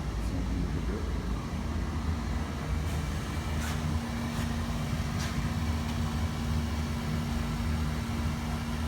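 Sooted-up boiler's burner firing steadily with a low rumble while it burns off soot and moisture. A steady hum joins about a third of the way in, and a few faint ticks sound near the middle.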